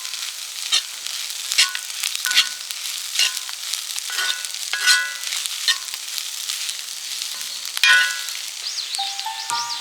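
Fried rice sizzling in a pan over a campfire while a metal utensil scrapes and taps the pan about once a second as it is stirred, some strokes leaving a short metallic ring.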